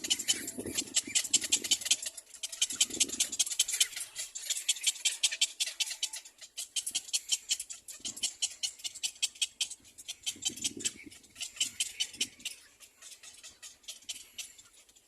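Little black cormorants calling at the nest: a fast, high ticking chatter with a few short, low grunting notes mixed in.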